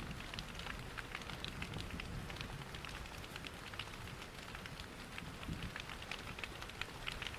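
Steady rain with a patter of drops, mixed with the crackle of a wood fire in a fireplace, with many small sharp pops over a steady low rush.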